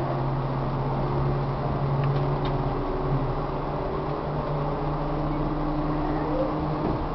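Tobu 1800 series train heard from inside a passenger car while running: a steady rumble with a continuous low hum and a higher tone that shifts now and then.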